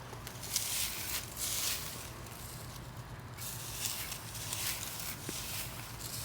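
Rustling and scraping of potato foliage and garden soil as the plants are dug up, in a run of uneven bursts that are busiest in the first half.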